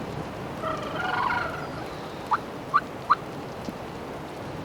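Wild turkey gobbler gobbling about a second in, a quick warbling rattle of notes. Just over a second later come three short, sharp turkey clucks, the loudest sounds here.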